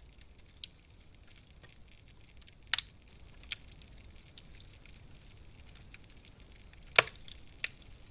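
Wood fire in a fireplace crackling: scattered sharp pops and snaps over a faint hiss, with the two loudest pops a little under three seconds in and at about seven seconds.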